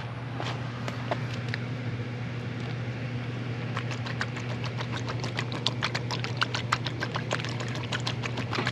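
Hand ratchet clicking in quick runs as flywheel bolts are run in on a diesel engine's crankshaft, over a steady low hum.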